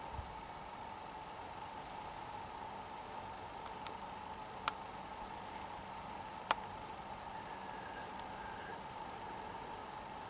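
Steady, high-pitched outdoor insect trilling with a soft pulsing, and three sharp clicks near the middle.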